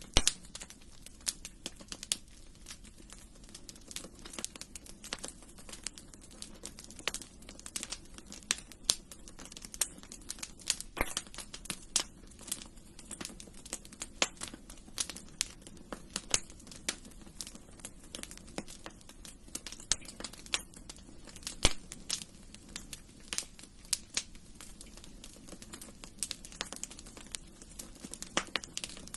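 Fireplace fire crackling, with sharp irregular pops and snaps several times a second over a low steady rumble.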